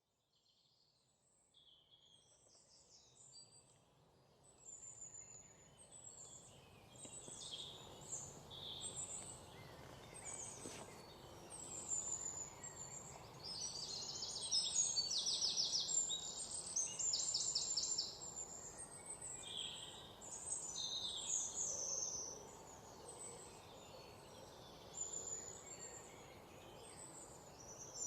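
Several birds singing and calling at once, with short chirps, whistles and rapid trills, over a steady low background hiss. It fades in from silence over the first few seconds.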